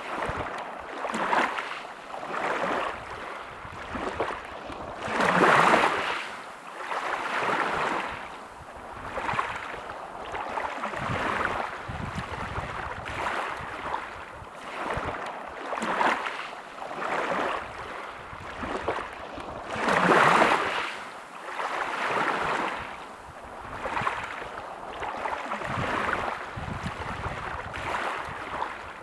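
Sea waves washing onto a beach: a rushing hiss of surf that swells and ebbs every second or two, with two bigger waves breaking about five seconds and twenty seconds in.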